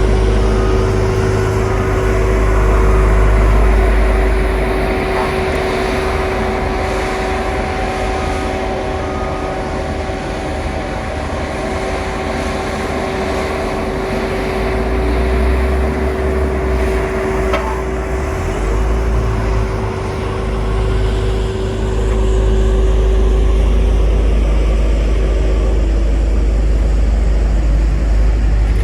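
Heavy diesel construction machinery running, a deep engine drone that swells and eases several times, with a steady whine over it that fades out near the end.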